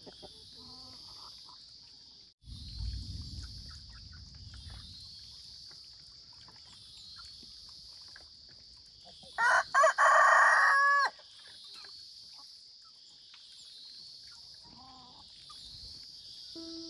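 A rooster crowing once, loudly, about ten seconds in, over a steady high-pitched drone. There is a brief low rumble about three seconds in.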